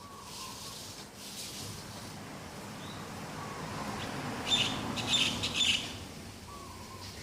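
Birds calling in the morning: three loud, harsh calls in quick succession a little past halfway, with softer high calls and a few short whistles around them, over a low background rumble.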